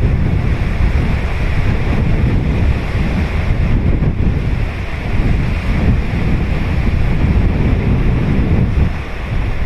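Ocean surf breaking and washing on a beach, a continuous loud rush with a hiss of foam, mixed with wind buffeting the microphone in low rumbling gusts.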